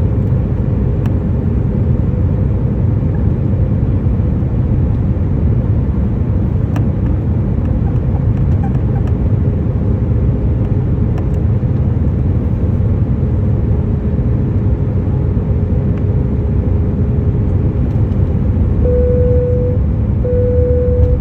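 Steady low rumble of a Boeing 737's engines and airframe heard inside the passenger cabin, with a faint steady hum under it. Near the end, two short tones of the same pitch sound about a second apart.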